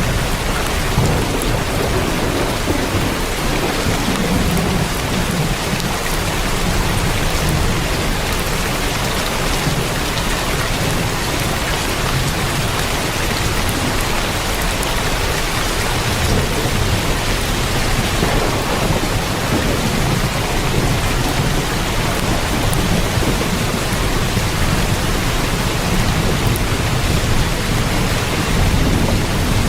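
Heavy rain drumming steadily on a tin roof, with a low rumble swelling and fading underneath.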